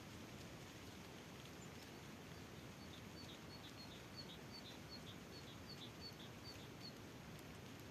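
Faint outdoor background noise with a small bird calling a quick series of short high chirps, about three a second, from about three seconds in until near the end.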